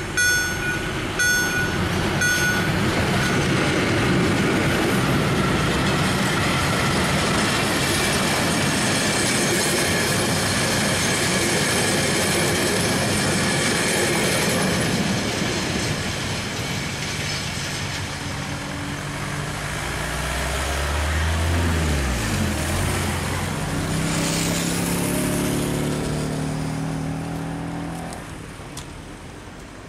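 Level-crossing warning beeps from the EHL-S10 sounders stop about two seconds in. A train of track-maintenance machinery wagons then rolls past, its wheel and rail noise fading out. Near the end, road vehicles cross, one engine rising in pitch as it pulls away.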